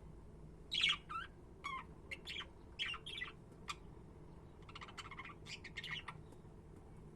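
Budgerigars calling: a string of short, sharp chirps starting about a second in, with a quicker buzzy chatter around five seconds in, over a faint steady background hum.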